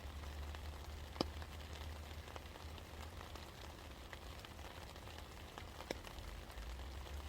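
Steady rain falling, with scattered drips ticking through it and two louder single drops, about a second in and near six seconds. A steady low rumble runs underneath.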